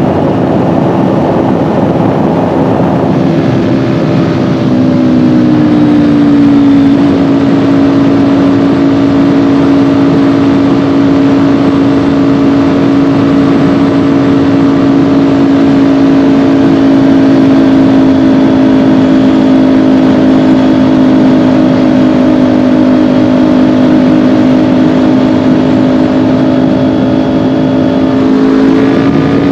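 Kawasaki Ninja 400's parallel-twin engine running under way, with wind noise. The engine note slides and steps in pitch a few seconds in, holds steady at cruising speed for most of the time, and changes pitch again near the end.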